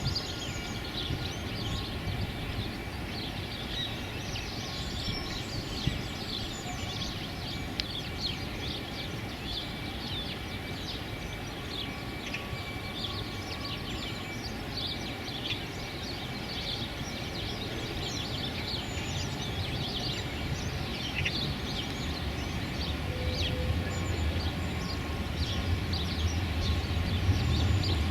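Many short, high bird chirps and calls over a steady low rumble of wind and background noise; the rumble grows louder in the last few seconds.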